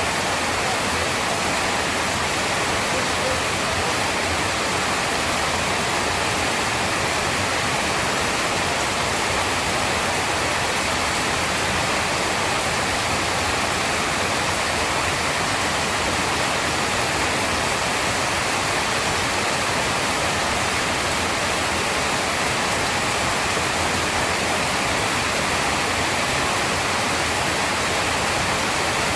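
Heavy rain pouring steadily, an even hiss with no thunder and no rise or fall.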